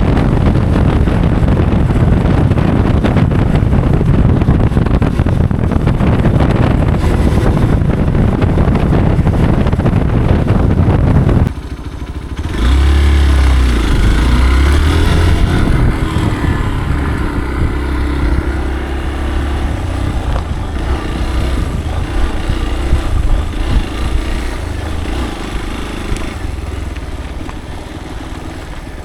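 Motorcycle ridden on an off-road trail: for the first eleven seconds mostly wind rushing on the microphone. After a sudden change the engine comes through clearly, revving up and down, then running steadier and slowly getting quieter.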